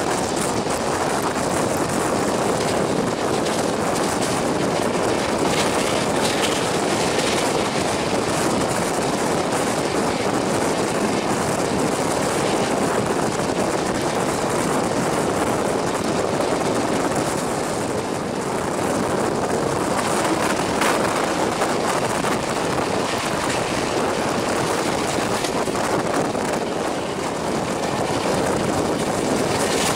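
Express passenger train running at high speed, heard from its open coach door: a steady, loud rush of wind on the microphone mixed with wheel and rail noise.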